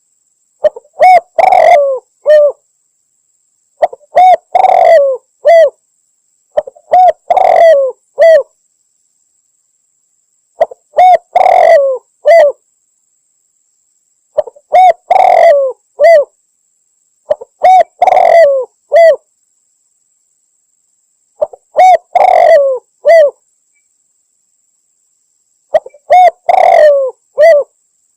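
Spotted dove (tekukur) cooing in loud groups of three or four notes, one group every three to four seconds with silence between: a recorded lure call of a female calling males, used by hunters to draw in male doves. A faint steady high whine runs underneath.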